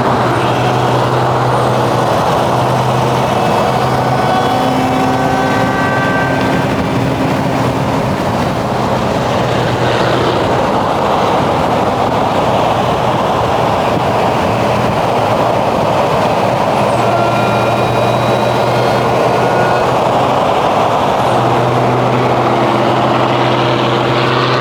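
Motor vehicle driving, with steady road and engine noise and a low engine hum that comes and goes.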